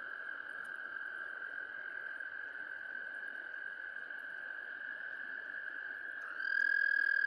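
Frogs giving one long, steady, high trill with no break. About six seconds in, a louder, nearer trill at the same pitch starts up.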